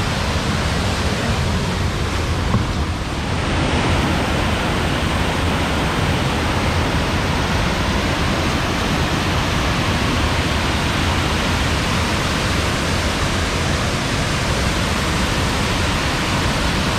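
Waterfall rushing: a loud, steady wash of falling water, dipping slightly for a moment about three seconds in.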